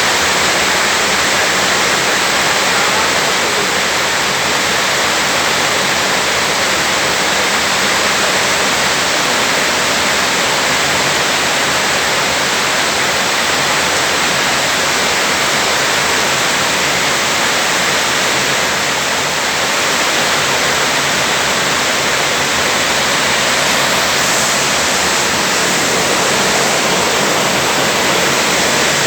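Heavy rain pouring down in a dense, steady hiss that holds at the same strength throughout.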